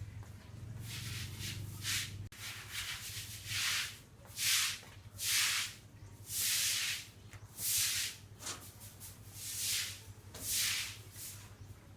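Rhythmic rubbing or scraping strokes, about nine of them, each lasting about half a second and coming roughly once a second, over a low hum that fades out about two seconds in.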